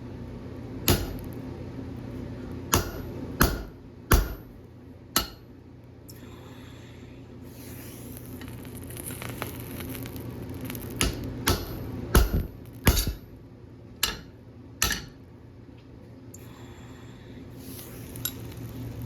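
Hammer blows on hot steel at an anvil, in two runs: about five irregular strikes, a pause of several seconds, then about six more. A steady low hum runs underneath.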